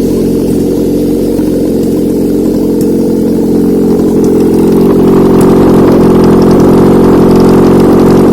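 Honda K24A 2.4-litre inline-four engine running on a test stand, idling steadily. About halfway through it grows louder and brighter and holds there.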